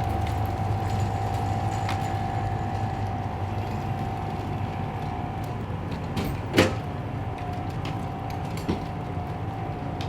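A vehicle engine idling with a steady low hum, with a single sharp knock about two-thirds of the way through and a fainter one shortly after.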